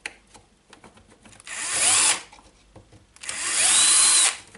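Power drill-driver running in two short bursts, each spinning up with a rising whine and holding for about a second, backing out the screws that hold the radio's antenna. Small clicks and knocks between the bursts.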